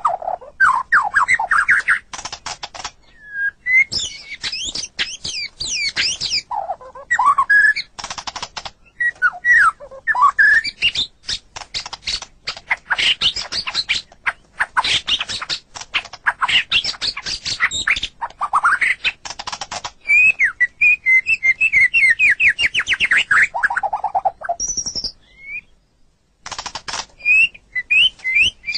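White-rumped shama (murai batu) singing a fast, varied song of gliding whistles, rapid trills and sharp clicking rattles, with a short break about 25 seconds in.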